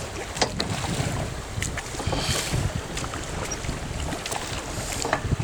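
River water rushing and splashing around a raft, with scattered splashes of paddle strokes and wind buffeting the microphone.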